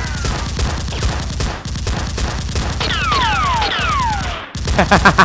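Rapid gunfire sound effects in a dense, continuous fusillade. A few falling whistles come about three seconds in, and a louder burst of rapid shots follows near the end.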